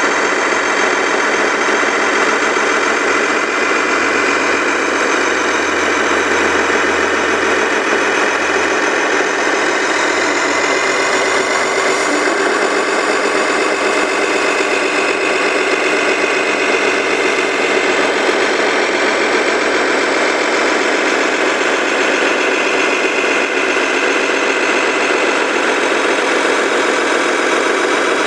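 Radio-controlled heavy vehicle running steadily with an engine-like idle, holding an even level throughout.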